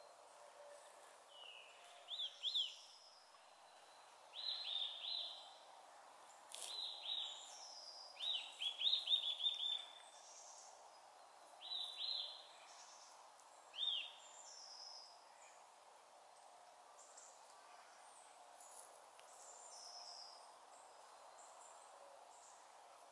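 Small woodland birds calling in short bursts of quick, falling notes, about six bursts over the first fourteen seconds or so, then only a few faint high calls. A faint steady hiss lies beneath.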